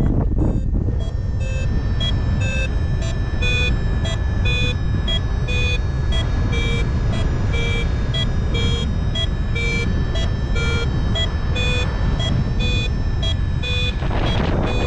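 Paragliding variometer beeping rapidly, about two to three short beeps a second that shift in pitch, signalling that the glider is climbing. Heavy wind rumble on the microphone underneath.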